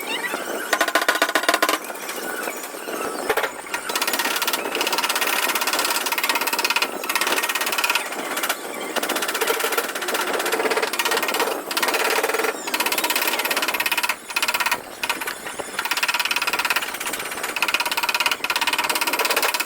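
Rapid, continuous tapping of a paintless dent repair tool against a car's sheet-metal body panel, broken by a few short pauses.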